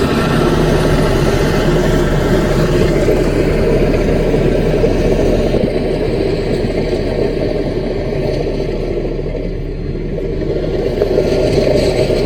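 Diesel engine of a CAT mini bulldozer running steadily as it works, easing off slightly about three-quarters of the way through and picking up again near the end.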